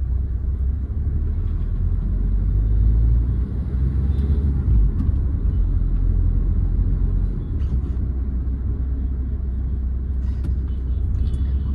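2008 Hyundai Verna 1.6 turbo diesel on the move: a steady low engine and road rumble, a little heavier from about three seconds in, easing off again after about seven.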